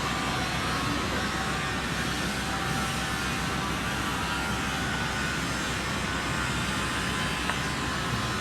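Lathe running steadily while turning a large pot-bearing part, an even machine noise with faint high steady tones.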